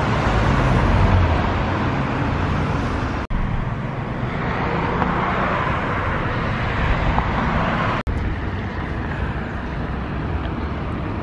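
Steady rumbling road-vehicle noise, cut off abruptly twice, about three and eight seconds in, where short clips are joined.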